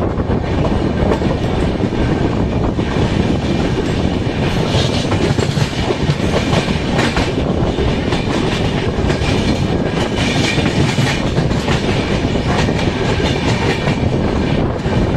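Passenger coaches of an Indian express train running slowly, heard from on board: a steady rumble with wheels clicking and clattering over rail joints, the clatter busiest in the middle of the stretch.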